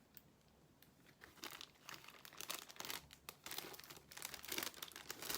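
Plastic cover film on a diamond painting canvas crinkling as it is handled, with irregular crackles starting about a second in.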